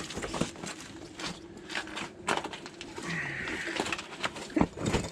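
Hammer tapping the bolt of a new sway bar end link up through its mount to get threads showing: a run of irregular knocks, the loudest about two seconds in and again near the end.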